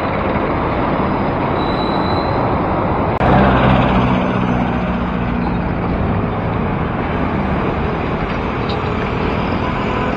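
Steady city road traffic noise heard from a moving bicycle. About three seconds in, a louder low engine hum from a nearby motor vehicle comes in and fades over the next couple of seconds.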